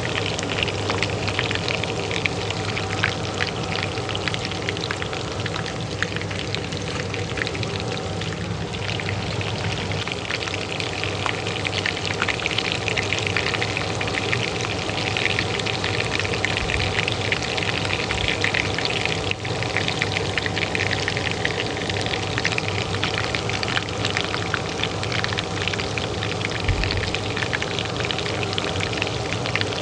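Hot oil sizzling and crackling steadily in a pan, over the steady hum of a range hood fan.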